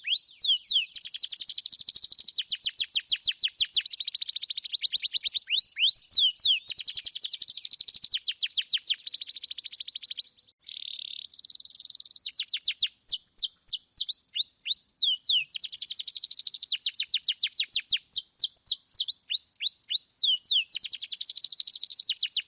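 Domestic canary singing: long rolls of fast-repeated notes mixed with upward-sweeping whistled 'suit' notes, with a brief break about ten seconds in.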